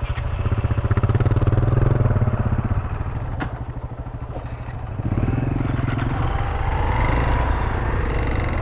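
Single-cylinder dual-sport motorcycle engine running with a fast, even beat. It eases off about three seconds in, then picks up again about five seconds in, its pitch rising.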